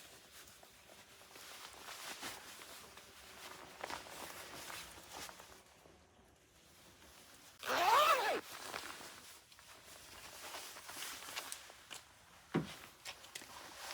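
Footsteps and rustling, with one short call that rises and then falls in pitch about eight seconds in, and a single thump near the end.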